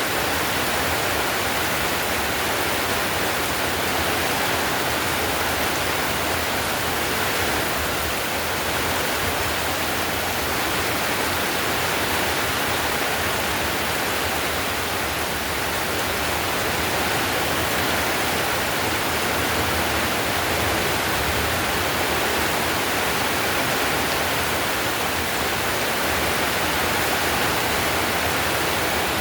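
Heavy rain falling on a tiled roof: a steady, even hiss of rain that holds level throughout.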